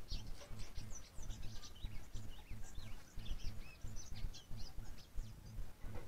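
Small birds chirping: many short, quick high-pitched chirps overlapping, which thin out and stop shortly before the end. Underneath runs a constant low rumbling noise.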